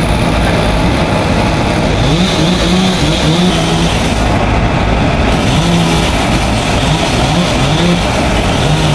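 Two-stroke chainsaw running steadily under load, cutting through the fallen tree. A short pitched tone rises and holds several times over it.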